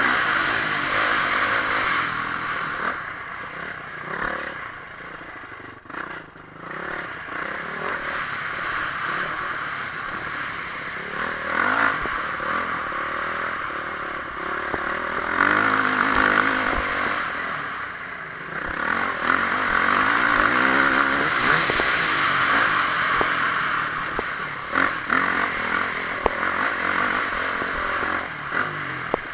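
Honda CRF450R single-cylinder four-stroke motocross engine running hard on the track, its revs repeatedly rising and falling as it accelerates and backs off, with a brief drop in level about six seconds in.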